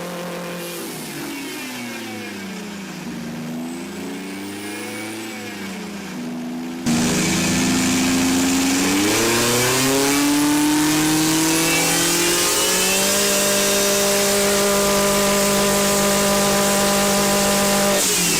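Lancia Delta S4's twin-charged 1.8-litre four-cylinder engine running on test, its revs sinking, dipping and rising again. About seven seconds in the sound jumps suddenly much louder, then the revs climb and hold steady at a higher speed before dropping off near the end.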